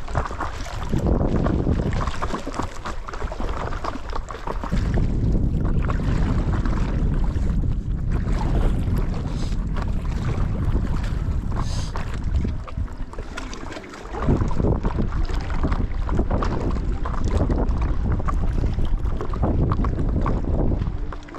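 Wind buffeting an action camera's microphone, a heavy low rumble that eases off briefly twice, with water sounds from paddling a stand-up paddle board.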